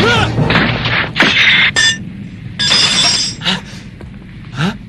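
Cartoon space-battle sound effects: a rapid string of sharp blasts and zaps, some ringing or sliding in pitch, with one longer noisy burst in the middle.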